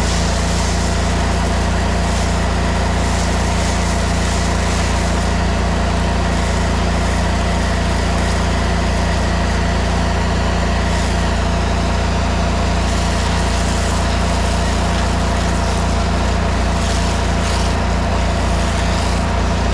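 An engine running steadily at an even speed, a constant drone that does not change.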